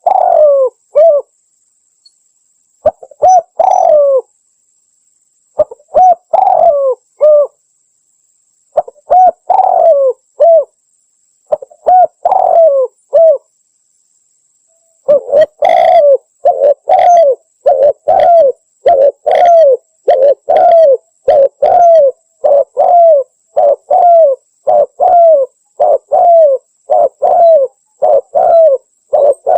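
Spotted dove (tekukur) cooing loudly: short multi-note coo phrases repeated every three seconds or so, then from about halfway a faster, almost unbroken run of coos.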